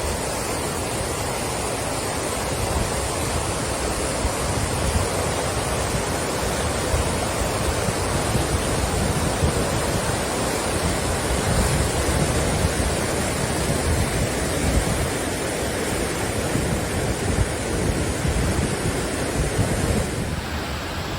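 Steady rush of a creek in flood during a hurricane, with wind buffeting the microphone.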